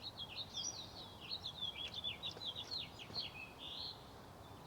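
A songbird singing a fast, continuous run of high sweeping chirps and warbles, ending with a short buzzy note just under four seconds in.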